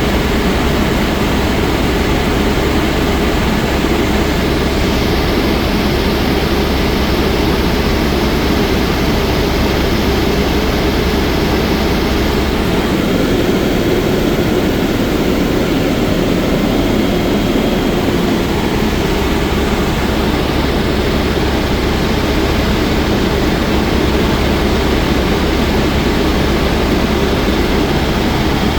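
Helicopter in flight: loud, steady rotor and engine noise with a deep low throb, easing slightly about halfway through.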